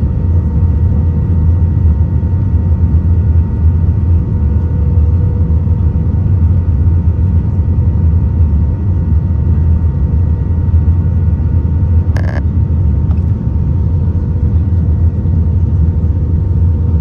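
Airbus A320 cabin noise: a steady low rumble of engines and airflow with a faint steady hum. A brief click sounds about twelve seconds in.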